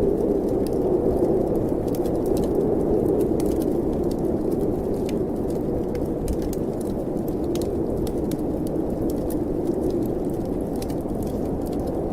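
Snowstorm wind as a steady low rushing noise, with a wood fire crackling in a fireplace: scattered sharp pops throughout.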